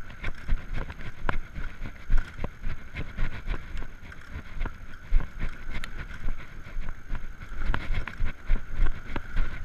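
Electric bike riding at about 20 km/h: wind buffeting the microphone as an uneven low rumble, with frequent small clicks and rattles from the bike over the road surface.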